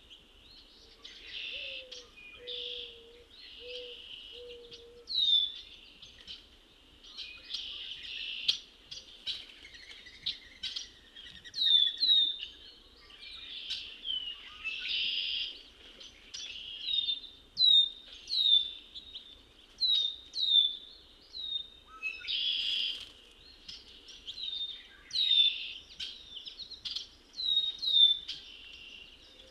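Wild songbirds calling and singing at the pond's edge: many short falling chirps and buzzy trilled songs, repeated throughout. In the first few seconds there are four low notes.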